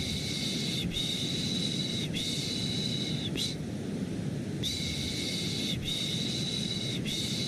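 Rhythmic 'shh' shushing for lulling a baby to sleep, each shush about a second long. They come in runs of three, each run ending in a brief clipped one, then a pause of about a second. Underneath runs a steady bed of white noise.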